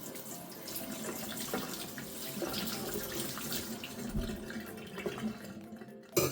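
Water running from a tap into a sink for about six seconds, ending with a sharp knock at the very end.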